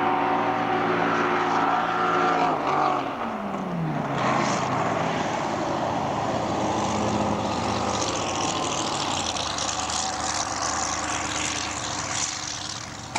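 Racing powerboat engine running hard at a steady pitch, then dropping sharply in pitch over about a second, followed by a steady rushing noise for the rest.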